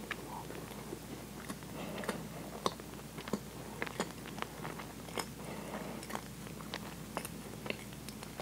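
A person chewing a mouthful of Twinkie sponge cake with cream filling, close to a clip-on microphone: steady mouth sounds with many short clicks, a few a second.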